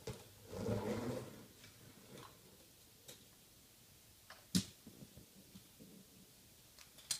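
Hot Wheels toy monster truck shot off a plastic launcher and jumping: a short rattle near the start, then a few light plastic clicks and knocks, the loudest about halfway through.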